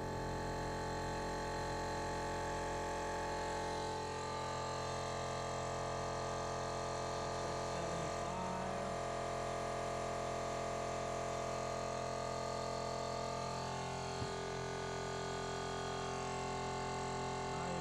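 12-volt air compressor motor running steadily under load, a continuous hum made of several steady tones whose pitch pattern shifts about four seconds in and again near the end. A single click comes a few seconds before the end.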